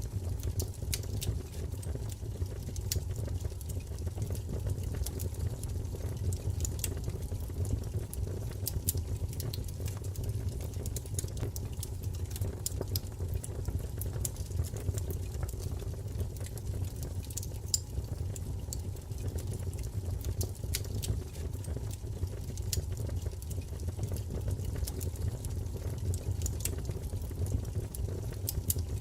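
Wood fire crackling: many small, irregular pops and snaps over a low, steady rumble of burning.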